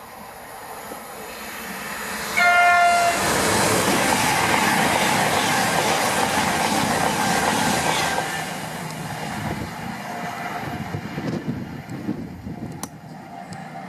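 A Voyager diesel-electric express unit sounds one short horn blast about two and a half seconds in. It then passes close by at speed, a loud rush of engine, wheel and wind noise, which fades away after about five seconds.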